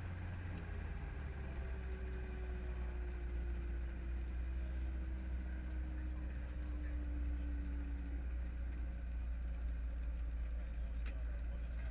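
Helicopter engine and rotor running with a steady low drone. A faint whining tone slowly falls in pitch through the middle.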